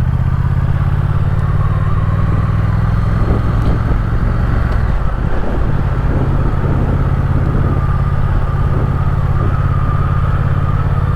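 Triumph Speed Twin's parallel-twin engine running at low, steady revs, heard from on the motorcycle.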